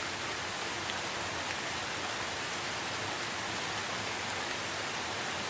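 Steady rainfall, an even unbroken hiss with no single drops standing out.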